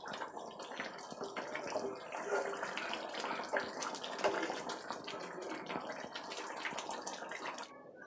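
Chicken curry gravy bubbling and sizzling in a pan while a spatula scrapes and clicks through it in stirring; the sound cuts off sharply near the end.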